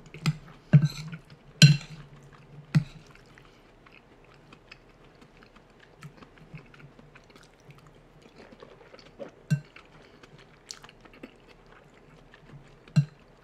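A person chewing and eating mouthfuls of soft stew, with wet mouth clicks. Several sharp clicks come in the first three seconds, then quieter, sparser chewing.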